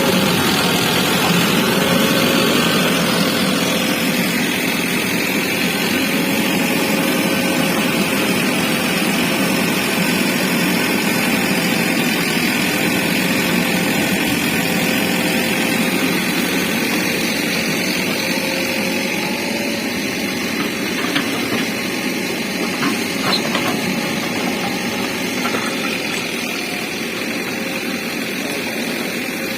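JCB backhoe loader's diesel engine running steadily under work, with a few short knocks about two-thirds of the way through.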